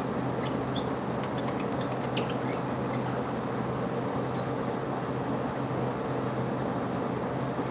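Steady mechanical hum and whir, with a few faint high bird chirps in the first couple of seconds and once more a little past the middle.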